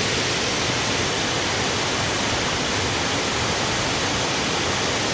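Steady rush of water pouring over a shallow river waterfall.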